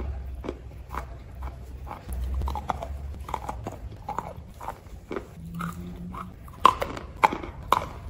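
A person chewing hard pieces of edible clay: a steady run of sharp crunches, about two a second, with the loudest few near the end.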